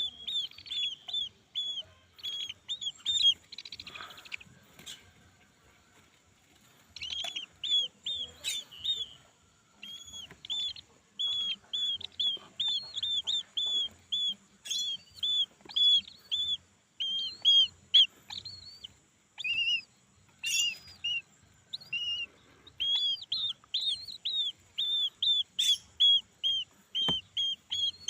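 Brahminy kite chick calling: a long series of short, high, repeated chirps, about three to four a second, broken by a few short pauses. There are a few sharp knocks among the calls.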